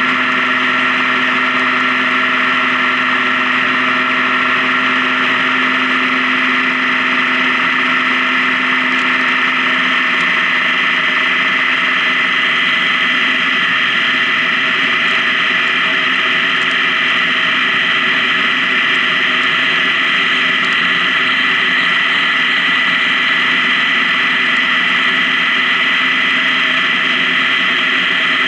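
Honda Gold Wing touring motorcycle running steadily at highway speed: a constant engine drone with road and wind noise. A low tone in the engine sound fades about ten seconds in.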